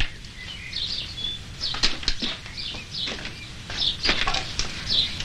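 Small birds chirping in short repeated calls, with a few short knocks in between.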